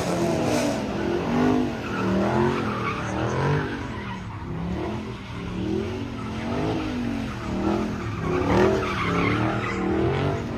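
Car engine revving up and down over and over while the tyres skid, as the car slides round in the pit.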